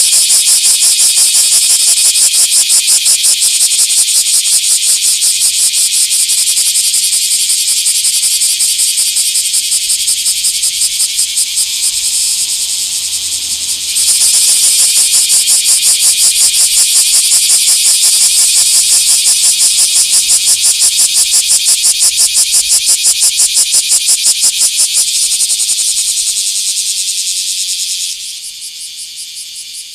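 Bear cicada (kumazemi, Cryptotympana facialis) calling: a loud, high, rapidly pulsing buzz. It dips briefly before the middle, comes back stronger, then winds down and fades near the end.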